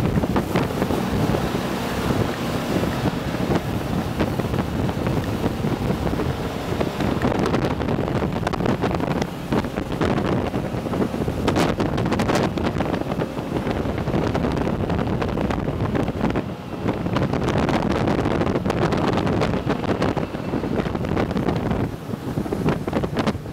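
Jet boat running at speed, its engine and water jet under heavy wind buffeting on the microphone.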